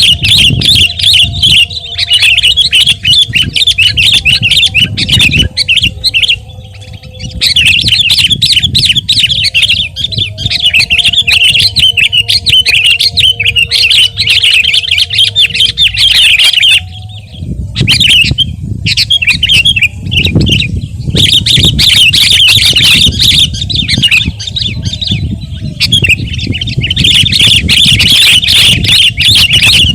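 Sooty-headed bulbul (kutilang) singing loudly in a vigorous, rapid chattering song, in long runs with short breaks about six seconds in and again just past the middle.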